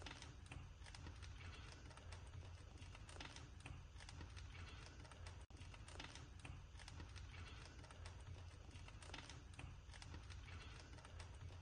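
Wood fire in a fireplace crackling faintly with irregular small pops and snaps, over a steady low hum. The sound cuts out for an instant about halfway.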